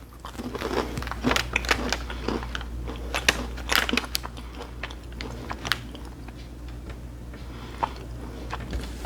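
A person chewing a crunchy extruded fried Indian snack, bhujia sev, close to the microphone: irregular crunches that thin out over the last few seconds.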